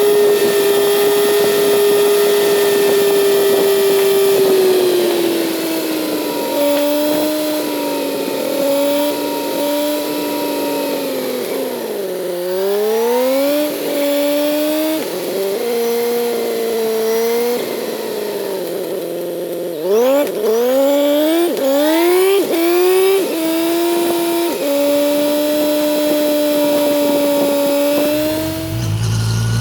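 Kawasaki Z900 inline-four motorcycle engine on the move: a steady cruise, then the revs drop and pick up again. About two-thirds of the way in it accelerates through a quick series of rising revs, each cut off by an upshift, then settles into a steady cruise before dropping to a low rumble at the very end.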